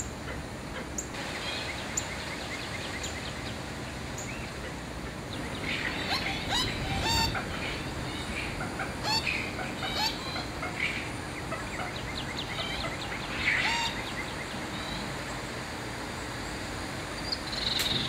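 Wild birds calling in bursts of short chirps and trills, busiest through the middle and again about two thirds of the way in, over a steady background hiss.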